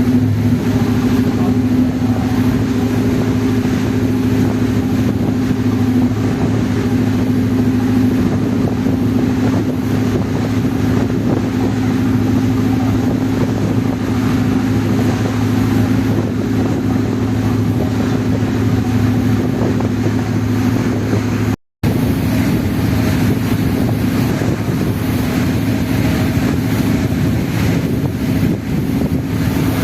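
Passenger ferry's engines running with a steady low drone, mixed with wind on the microphone. The sound cuts out for an instant about three-quarters of the way through.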